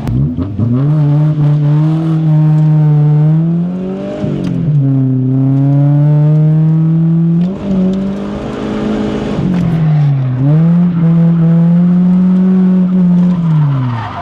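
Drift car's engine heard from inside the cabin, revving hard. The pitch climbs, is held high for a few seconds, then drops back briefly, about four times over.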